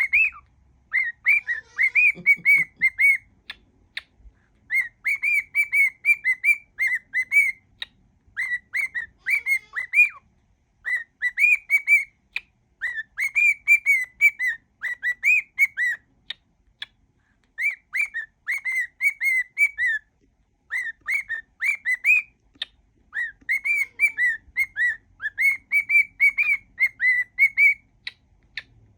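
Pet cockatiel whistling a song mash-up: phrases of quick, wavering whistled notes, each a second or two long with brief pauses between.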